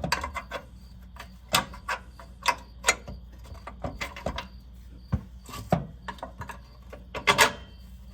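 Irregular metallic clicks and knocks of suspension hardware being handled and fitted by hand on a truck's upper control arm mount, loudest in a quick cluster near the end.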